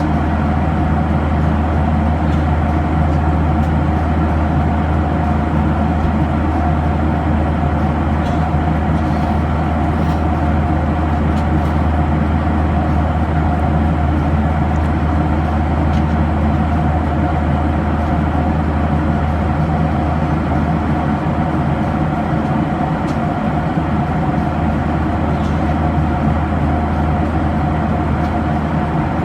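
Steady jet cabin noise of a Boeing 737-800 in flight: the engines and airflow make a deep, even rumble with a steady mid-pitched hum over it.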